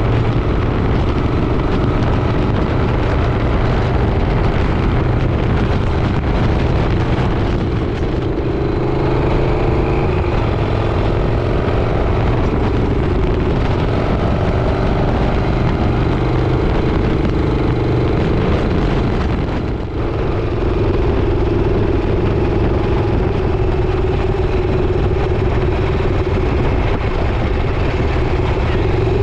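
Motorcycle engine running steadily while riding, its pitch drifting slowly up and down, over a rush of wind noise. The sound dips briefly about twenty seconds in.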